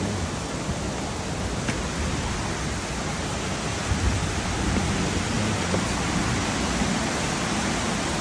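Steady rushing of a swollen, fast-flowing river mixed with falling rain, with a few faint drop-like ticks.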